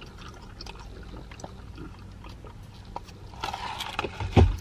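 A person chewing food with small mouth clicks, then handling noise and a dull thump about four seconds in as the plastic takeout tray and drink are moved.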